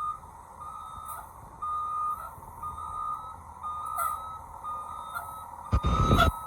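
Blue Bird bus back-up alarm sounding a steady series of single-tone beeps, about two a second, over a low rumble. A short burst of louder noise comes near the end.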